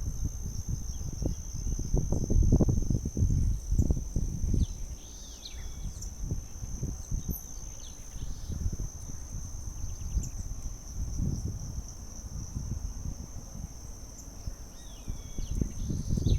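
A steady high insect trill, cricket-like, runs throughout. A few short chirping bird calls come about five seconds in and again near the end. Uneven low rumbling, loudest in the first few seconds, lies under it all.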